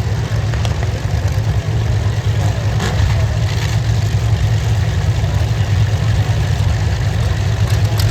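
Demolition derby car engines running together in a loud, steady, low rumble.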